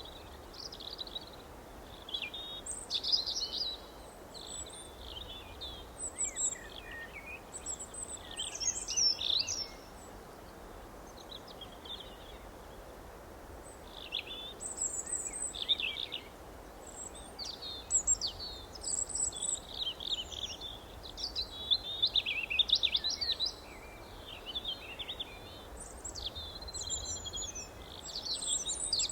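Several songbirds chirping and warbling in quick, high-pitched phrases, coming in bursts every second or two with short gaps, over a faint steady background hiss.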